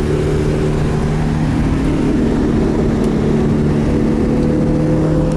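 The 1984 Mazda RX-7 GSL-SE's 13B rotary engine runs at a steady cruise, heard from inside the cabin while driving, with a low road-noise rumble beneath. The engine's hum holds an even pitch throughout.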